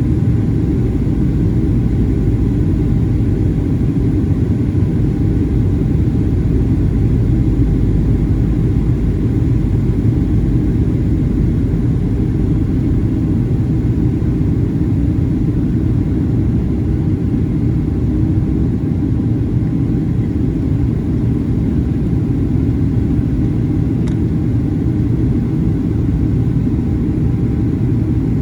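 Boeing 737-800 airliner's CFM56-7B turbofan engines and airflow making a steady low rumble, with a few faint steady tones above it.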